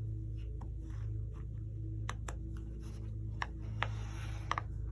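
Fidget toys being handled: a few scattered sharp clicks and taps about two seconds in and again near the end, over a steady low hum.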